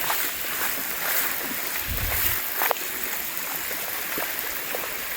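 Floodwater running and rushing along a flooded street in a steady hiss, with a few small splashes and a low thump about two seconds in.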